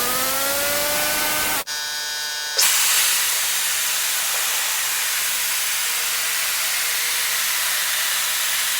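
A motor's whine climbs in pitch and levels off over a steady hiss, then cuts off abruptly about a second and a half in. From just under three seconds in, an automatic car wash machine's high-pressure water spray gives a loud, steady hiss.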